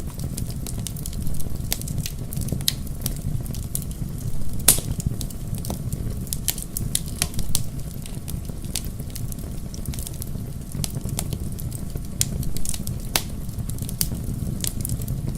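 Bonfire burning: wood crackling with frequent sharp, irregular pops over a steady low rumble of flames. One pop about five seconds in is louder than the rest.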